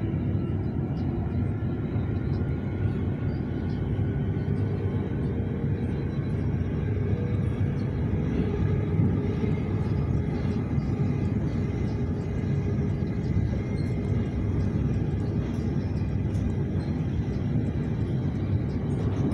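Cabin noise inside a Siemens Nexas electric suburban train running at speed: a steady low rumble of wheels on track, with a faint steady whine above it.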